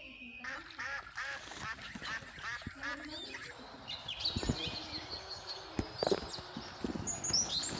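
Birds calling: a fast run of repeated calls for the first few seconds, then higher chirps, with a few sharp knocks among them.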